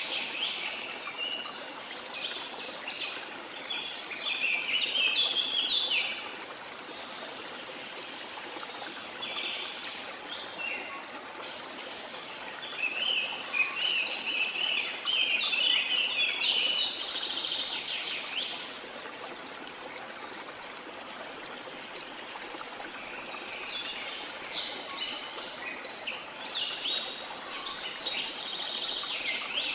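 Several birds singing in bouts of rapid chirps and trills, over a steady rush of falling water. The bird song is loudest in three stretches: at the start, in the middle, and near the end.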